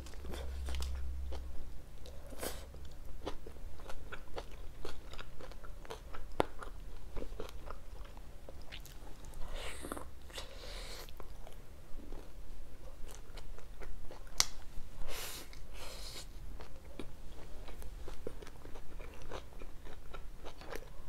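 Close-miked biting and chewing of a cheesy pizza slice: many small wet mouth clicks, with a few louder bites and chews about halfway through and again a few seconds later.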